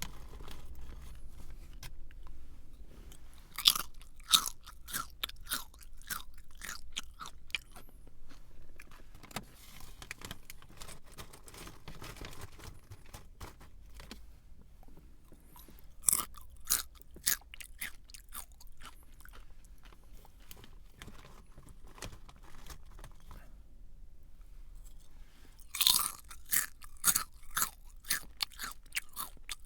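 Close-up chewing of a crunchy snack. Three times a loud crisp bite is followed by a run of smaller crackling crunches that fade off, with softer chewing in between.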